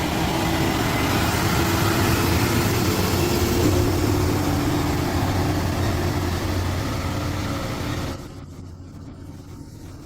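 Vehicle engine running steadily with road noise. It drops suddenly to a much quieter hum about eight seconds in.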